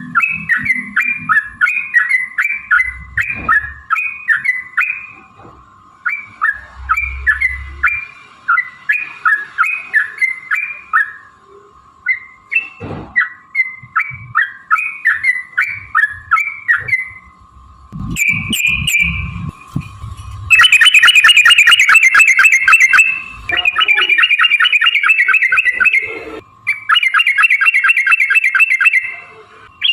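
Yellow-vented bulbul calling: long runs of quick, bubbly chattering notes, then from about two-thirds in a loud, very fast rattling trill in three long stretches.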